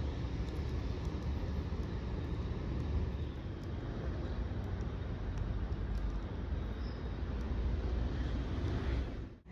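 Steady low rumble of vehicle noise, with a few faint high clicks here and there.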